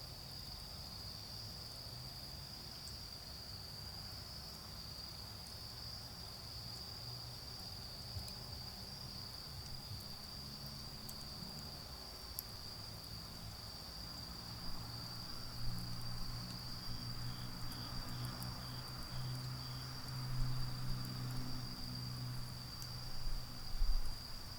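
Autumn insects singing one steady, unbroken high trill. From about halfway through, a low rumble of distant road traffic swells beneath it.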